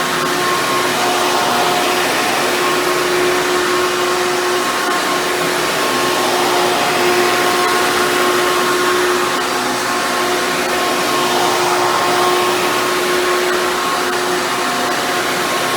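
Hoover Bagless Twin Chamber upright vacuum cleaner running steadily, a continuous motor whir with a steady hum.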